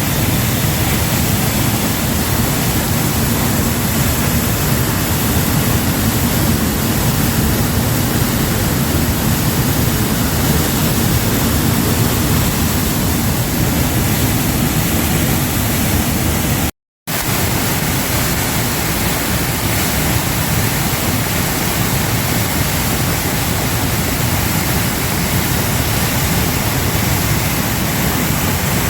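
Waterfall rushing: a steady, loud wash of falling water. It cuts out completely for a split second about two-thirds of the way through.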